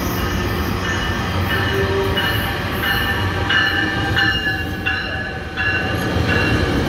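Commuter train rolling into the station past the platform with a steady rumble. Over it, a bell rings at an even beat, about three strokes every two seconds.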